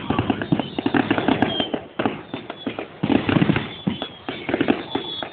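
Fireworks going off: rapid crackling pops, many a second, coming in dense bunches with short lulls between them.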